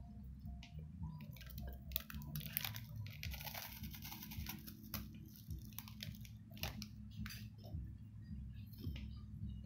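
Crinkling of the plastic wrapper on a Wafrets Choco Bar as it is bitten, then the bar crunching and being chewed with sharp crackles and clicks. A low steady hum runs underneath.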